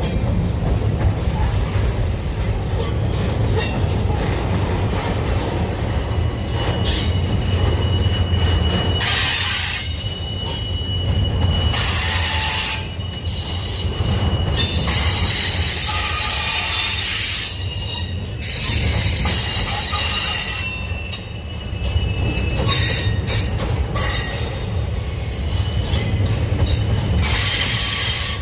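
Union Pacific intermodal freight train rolling past: a steady low rumble of the cars on the rails, with repeated high-pitched wheel squeal and a long held squeal tone partway through.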